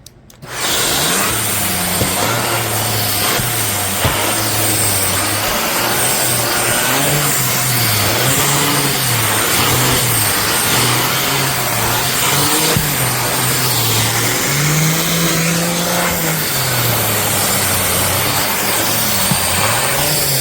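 Shark AZ3002 Stratos upright vacuum switched on about half a second in with its pet brush attached. It runs loudly and steadily with a rushing sound, over a low hum that wavers up and down in pitch.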